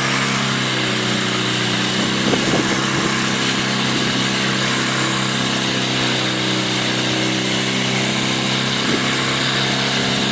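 A small boat's engine running at a steady speed: an even, unchanging drone with a hiss over it.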